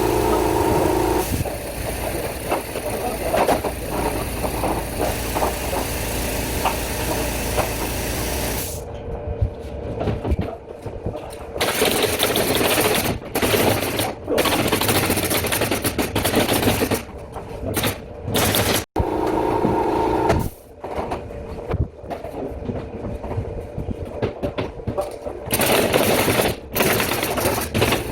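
Ceiling carpentry work noise: pneumatic nail gun shots fired in quick irregular runs, mixed with knocking and a steady machine running at times.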